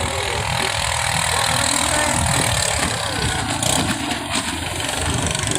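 Ketinting longtail boat engines running, a steady, continuous engine noise.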